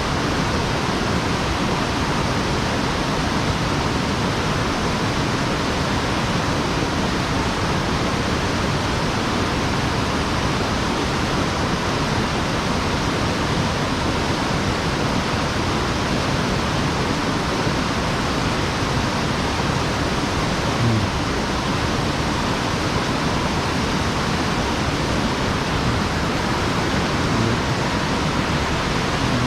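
Steady, even rush of water pouring over an erosion-control check dam and running down a mountain stream.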